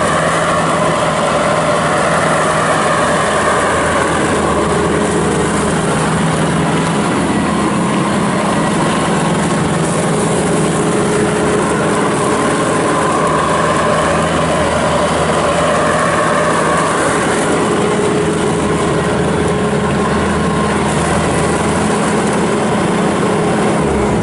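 Bobcat S740 skid steer loader's 74 hp turbo-diesel engine running steadily, with a higher whine that slowly wavers up and down.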